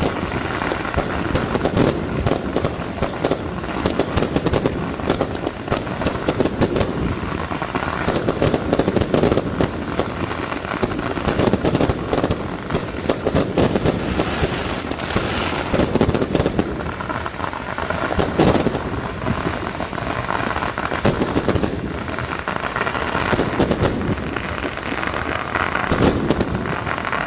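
Fireworks going off in rapid succession: a dense, continuous crackle of many sharp bangs.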